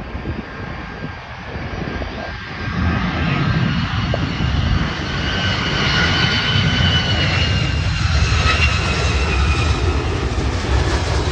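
Boeing 757 jet engines as the airliner comes in: a heavy rumble that swells louder from about three seconds in, with a steady high whine from the engine fans above it.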